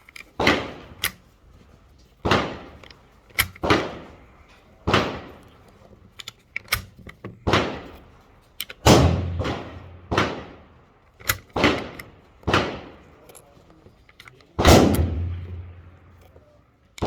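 Irregular gunfire at a shooting range: about fifteen shots in quick, uneven succession, each followed by an echoing tail. The two loudest and deepest come about halfway through and about three-quarters through.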